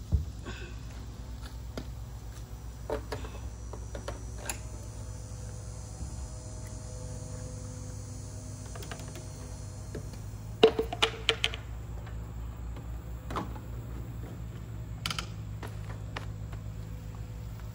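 Scattered sharp metallic clicks and taps from work on the mower, with a quick run of several taps about eleven seconds in, over a steady low hum.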